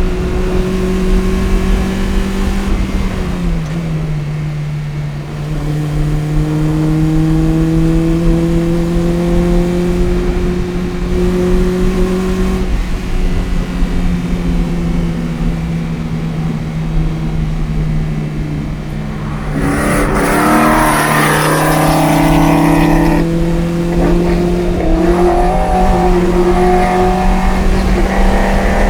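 A Toyota MR2 Spyder's 1ZZ 1.8-litre four-cylinder, with a header and Fujitsubo exhaust, running hard on track. Its note drops in pitch about three seconds in, then climbs slowly. A burst of hiss comes around twenty seconds in.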